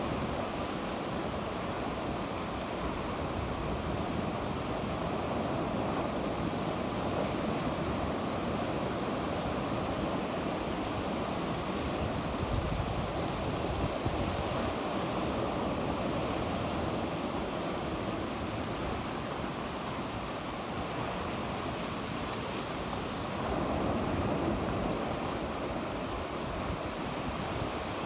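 Sea waves washing steadily onto the shore, with a slight swell in the surf near the end, and some wind noise on the microphone.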